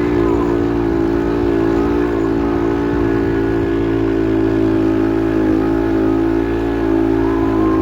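Dirt bike engine running at high, fairly steady revs, its pitch dipping and rising slightly a few times as the throttle changes.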